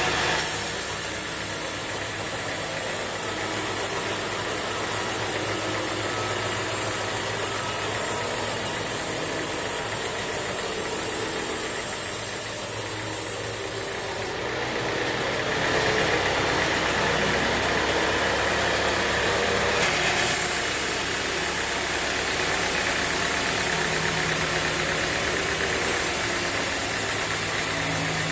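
Band sawmill machinery running steadily with a continuous mechanical drone and hiss. The hiss grows brighter about halfway through and changes again a few seconds later.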